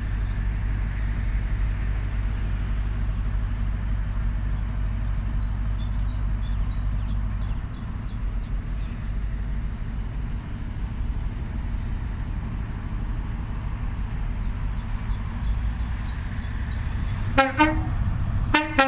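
Class 43 HST power car's diesel engine running with a steady low rumble as the train departs, then two short horn blasts about a second apart near the end.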